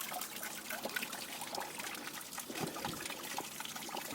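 Water trickling and splashing steadily in a small pump-fed fountain grotto.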